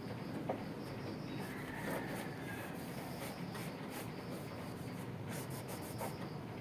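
Steady hand rubbing, a cloth or pad worked back and forth over the hood's metal surface, with a few light clicks.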